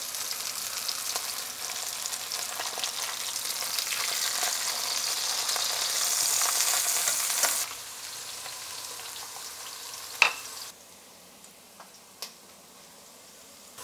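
Zucchini slices frying in hot oil in a stainless steel pan: a steady crackling sizzle that grows a little louder. About two-thirds in it cuts off abruptly to a quieter sizzle of diced onion sautéing in a pot, with a couple of light knocks.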